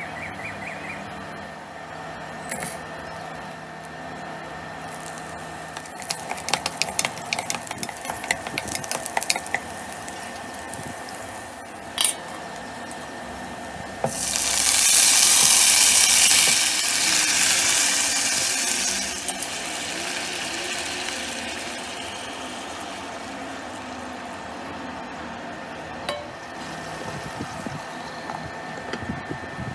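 Aromatics (garlic, scallion, peppercorns) crackling and popping in hot oil in a nonstick pot. About halfway through, a loud sizzle rises as wet marinated glass noodles and seafood hit the oil, then settles to a softer steady sizzle. A light clink of a glass pot lid comes near the end.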